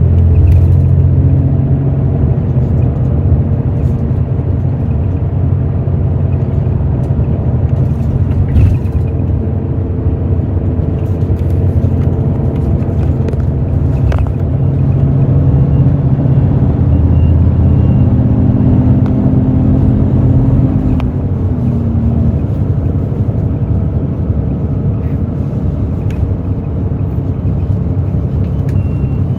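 The 7.7-litre Hino J08E-VD diesel engine of a Hino RN8JSVU-SSF bus, heard from inside the cabin as the bus drives along. The engine's drone rises and falls, with its pitch dropping about 20 seconds in as the engine slows, and there are a few light knocks.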